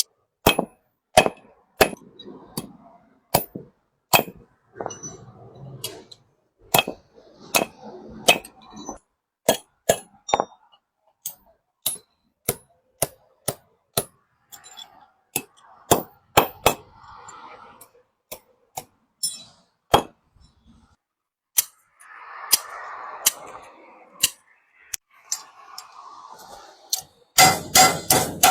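Hammer blows on a large sheet-metal basin: single ringing clangs at an uneven pace, about one or two a second, then a quick run of rapid strikes near the end.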